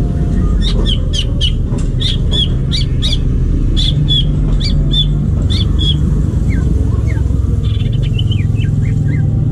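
Green leafbird (cucak ijo) singing: a run of sharp, high notes about two a second, then a series of lower notes sliding downward near the end. A steady loud low rumble lies underneath.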